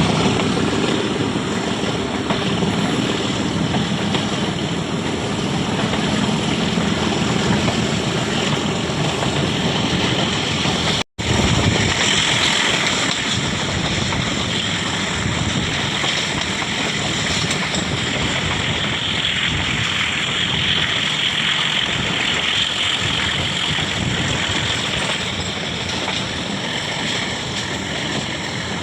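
Passenger train running, heard from on board as a steady rushing and rumbling with wind on the microphone. It cuts out for an instant about eleven seconds in.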